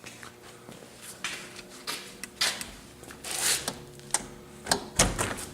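A string of irregular clicks and knocks with several short scraping rustles, the loudest scrapes about two-thirds of the way through and near the end, over a faint steady hum.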